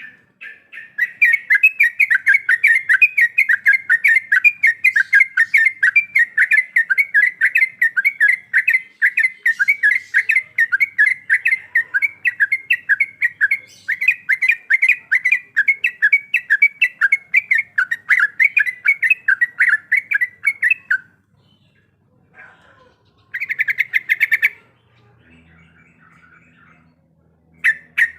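Yellow-vented bulbul (trucukan) singing a long, fast run of repeated chattering notes, about five a second, that breaks off about 21 s in. A short quick burst follows a few seconds later.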